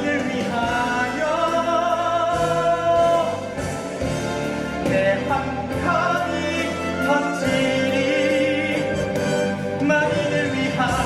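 A musical-theatre song: voices holding long notes with vibrato over instrumental accompaniment.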